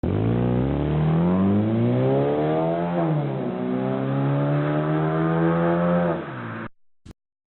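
Car engine accelerating, its pitch climbing, dropping with a gear change about three seconds in, then climbing again before cutting off suddenly. A short click follows just after.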